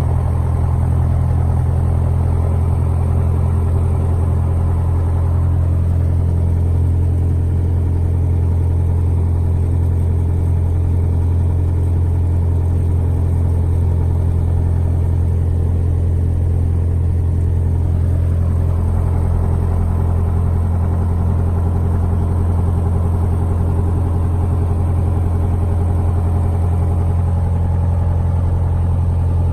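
Light airplane's engine and propeller running at a steady high power during takeoff, a constant deep drone.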